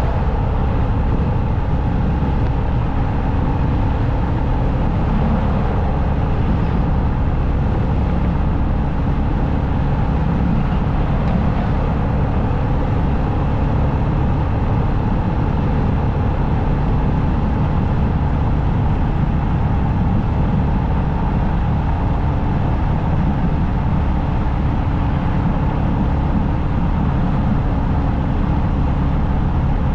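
Motorcycle travelling at a steady highway speed: the engine runs evenly under constant wind and road noise, with no change in pace.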